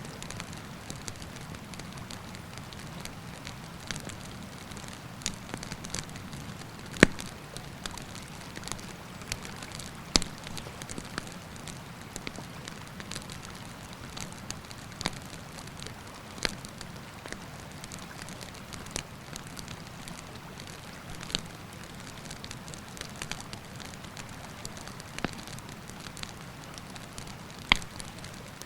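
Wood campfire crackling, with sharp pops at irregular intervals; the loudest pops come about seven seconds in and near the end. A steady rush of river water runs underneath.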